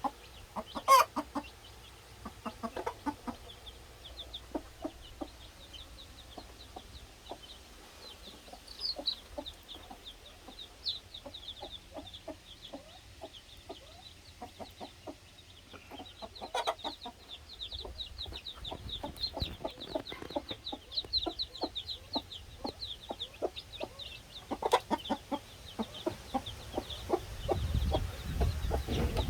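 A mother hen clucking in a steady run of short, low clucks while her Cheonggye chicks peep in high, quick falling cheeps through much of the stretch. A few sharp knocks are also heard.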